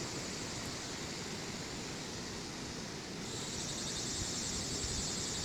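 Insects chirring in a steady high-pitched chorus that grows louder about three seconds in, over a low outdoor rumble.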